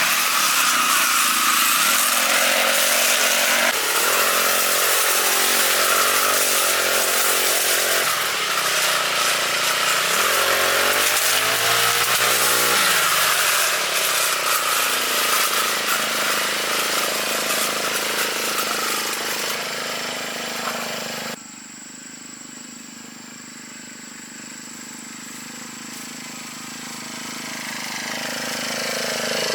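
Lawn mower's small petrol engine running under load, its speed dipping and picking up again partway through. About two-thirds of the way in it drops suddenly to a quieter, lower run, then builds steadily louder near the end.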